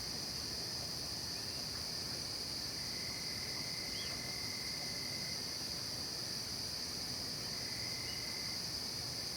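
Night chorus of crickets and other insects in a forest: a steady, high-pitched, continuous drone. A fainter, lower trill comes in for a couple of seconds from about three seconds in, and again briefly near the end.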